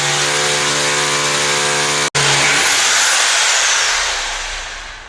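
Rotary hammer drill boring an anchor hole into a hard, old precast concrete floor slab, running at a steady pitch. About two and a half seconds in it is released and the motor spins down with a falling whine, fading out.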